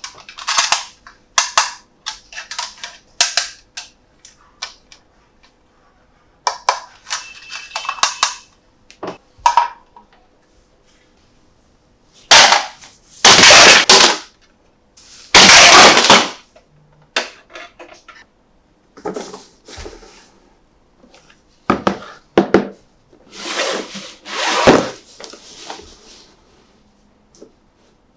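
Toy packaging being handled and opened, with plastic and cardboard clicking, crackling and rustling in short irregular bursts. There are two longer, louder stretches of crackling a little before and after the middle.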